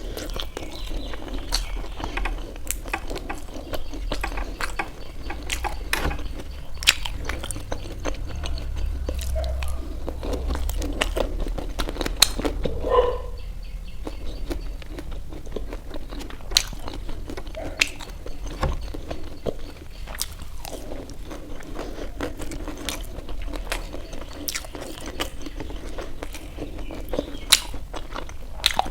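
Close-miked chewing and biting of momo dumplings, with sharp wet mouth clicks scattered throughout. A short pitched sound about 13 seconds in.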